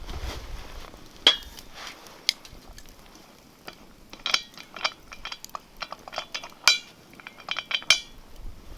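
Metal cookware and utensils clinking: a series of sharp, ringing metallic clinks at irregular intervals.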